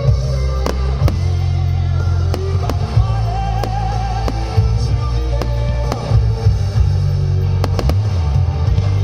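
Aerial firework shells bursting, a dozen or so sharp bangs at irregular intervals, over loud music with a heavy bass line and a wavering melody.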